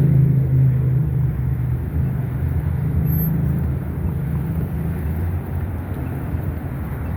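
Street traffic: a motor vehicle's engine running close by with a low hum that eases after about four seconds, over general road noise.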